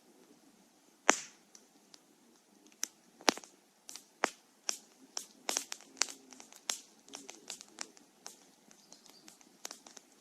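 Wood fire burning with irregular crackles and sharp pops over a faint low hiss, the loudest pop about a second in.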